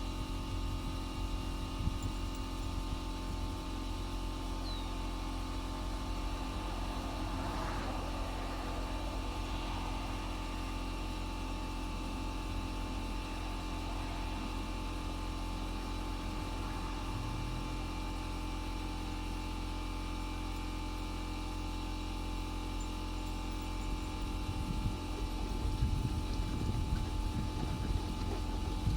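A machine running steadily: a constant low hum with an engine-like drone that does not change, with some uneven low rumbling near the end.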